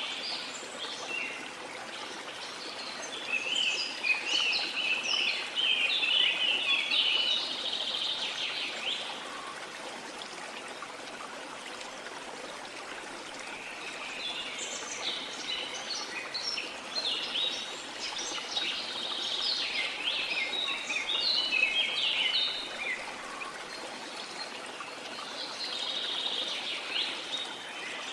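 Small songbirds twittering in three bouts of rapid high chirps, over a steady rush of sea water.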